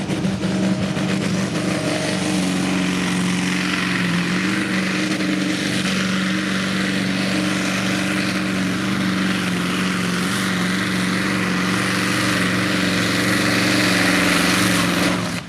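Supersport pulling truck's engine running flat out under load, a loud steady drone that holds one pitch and swells slightly near the end.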